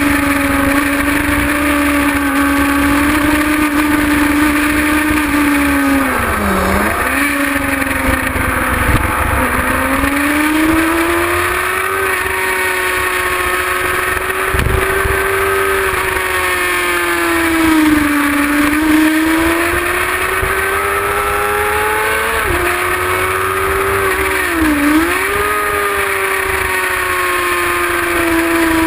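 Kawasaki ZX-6R inline-four engine running hard at high revs. Its pitch swells and sags with the throttle, dips briefly twice and drops suddenly once, over a low rush of wind on the microphone.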